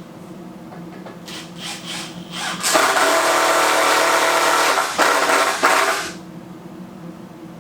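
Power drill running: a few short trigger pulls, then a steady whine of about three seconds that stops and starts twice before cutting off.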